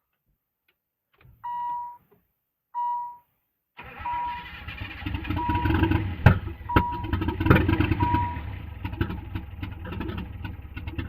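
Nissan RB25DET straight-six cranked over, catching and sputtering unevenly with a couple of sharp pops. It is running rough on a bare-minimum setup with no airflow meter or idle air control connected. A car's warning chime beeps twice before, then keeps beeping about once every second and a half through it.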